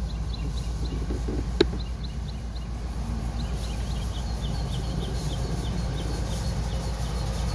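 Steady low rumble of an approaching freight train's diesel locomotives, with a bird giving rows of short, high chirps several times a second and a single sharp click about a second and a half in.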